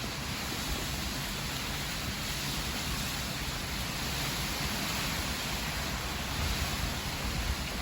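Steady heavy rain and wind of a hurricane: an even rushing hiss with a fluttering low rumble underneath.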